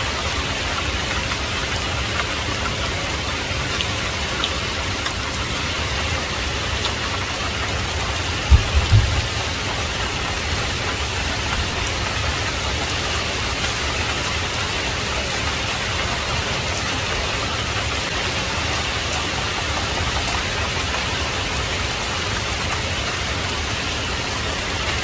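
Heavy rain falling steadily as an even hiss. About eight and a half seconds in, a brief low double thump stands out above it.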